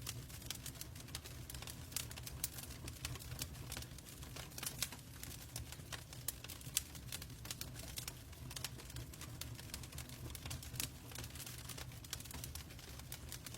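Wood fire crackling in a fireplace, with many irregular snaps and pops over a steady low rumble and a soft hiss of rain.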